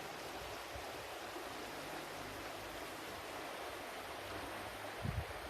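Flowing water: a steady, even rush like a stream. About five seconds in, two brief low thumps stand out above it.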